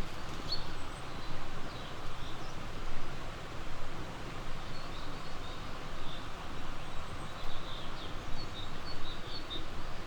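Small birds chirping in short high notes, more often in the second half, over a steady rushing background of running water.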